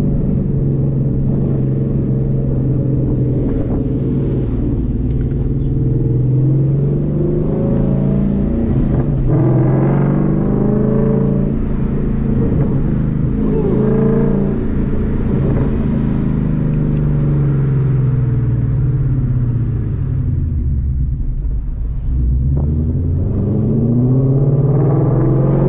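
Ford Mustang's engine and exhaust heard from inside the cabin, running on E85 and accelerating along the street. The pitch climbs and falls back several times, as at gear changes, drops away about twenty seconds in, then climbs again near the end.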